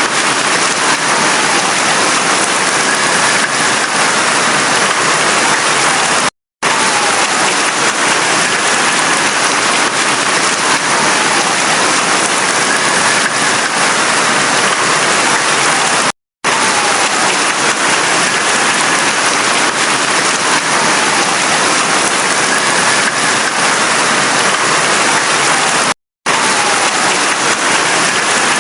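Steady heavy rain, a loud even hiss, cut by brief moments of total silence about every ten seconds, where the recording loop seems to restart. A faint tone glides slowly up and down in the background.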